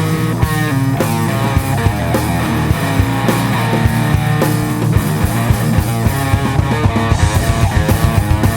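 Instrumental rock music: guitars over bass and drums with a steady beat, the drum hits growing quicker near the end.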